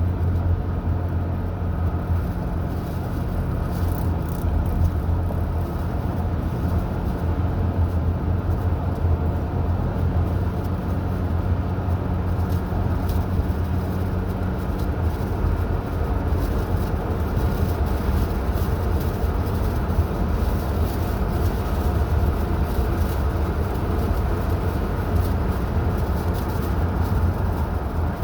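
Car driving at steady speed: a constant low engine hum with tyre and road noise. The engine note shifts about halfway through.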